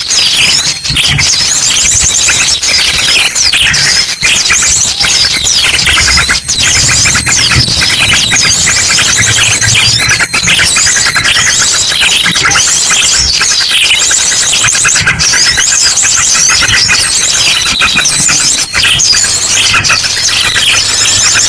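A dense, noisy chorus of many small songbirds chirping and calling over each other, mixed with an ashy drongo's fast rapid-fire song bursts: a bird-lure recording.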